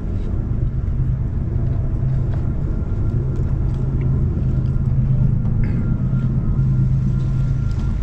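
Steady low engine hum of a vehicle idling, running evenly without change.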